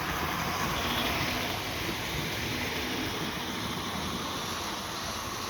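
Hornby OO gauge model train running on its track: a steady whirring and rattling from the small electric motor and the wheels on the rails.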